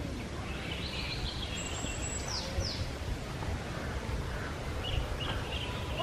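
Scattered bird calls over a steady low rumble: a few chirps about a second in, two quick downward-sweeping whistles a little past two seconds, and more chirps near the end.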